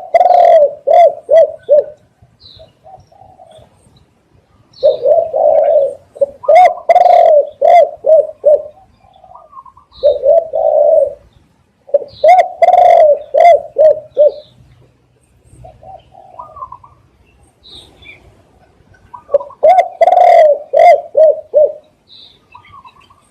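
Spotted dove cooing: phrases of several quick, low coo notes, repeated every few seconds, with short pauses between phrases.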